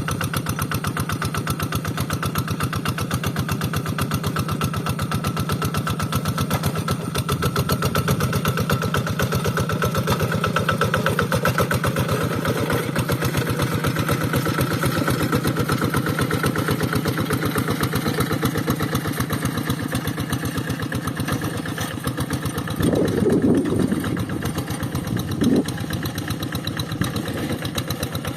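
Rice-field tractor's diesel engine running steadily with rapid, even firing pulses. It surges louder for about a second near the three-quarter mark, with another brief burst a couple of seconds later.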